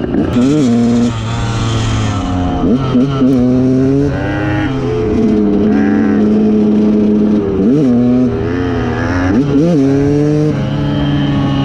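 KTM two-stroke dirt bike engine under way, its revs held steady for a second or two at a time and jumping up sharply with several quick throttle blips.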